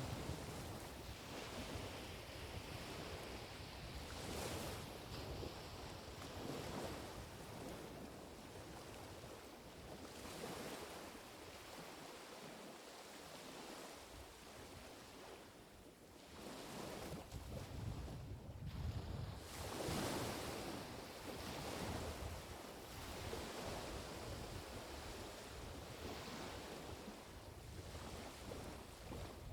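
Small, gentle waves of the Sea of Okhotsk washing ashore one after another, each swelling and ebbing over a few seconds. Quieter for a few seconds in the middle, then fuller about two-thirds through.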